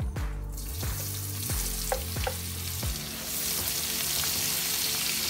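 Pieces of boiled beef lung sizzling in hot oil in a wok, with a spatula knocking and scraping against the pan a few times; the sizzle grows louder about three seconds in.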